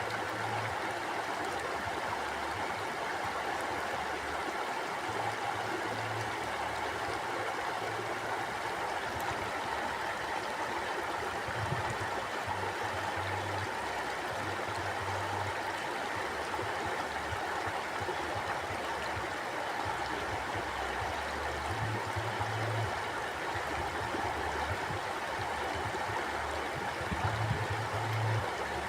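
Mountain stream flowing steadily over rocks, an even rushing with gurgling. Low rumbling comes and goes underneath every few seconds.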